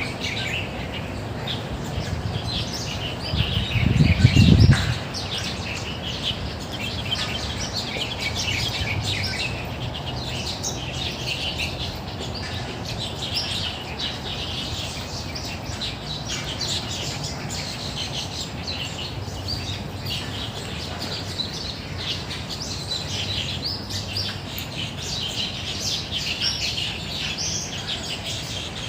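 Dense chorus of many small birds chirping and twittering in park trees without a break. About four seconds in, a brief low rumble rises above the birdsong, the loudest moment.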